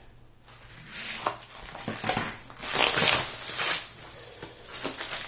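Packing material rustling and crinkling in irregular bursts as parts are unpacked from a box, loudest in the middle.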